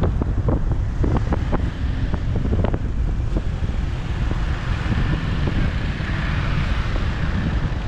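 Wind buffeting the microphone of a moving motorcycle over a low engine and road rumble. A quick series of clicks sounds over the first three seconds, and a hiss rises about halfway through, then fades near the end.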